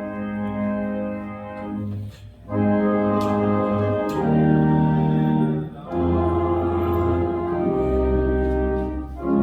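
Church organ playing slow, sustained chords that start abruptly and change every second or two, growing louder a few seconds in, with a deep bass note added near the end.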